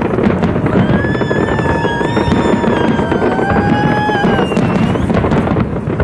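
A fireworks display with many shells bursting in rapid bangs and crackle. A high held tone of several pitches at once sounds over it from about a second in to about four and a half seconds.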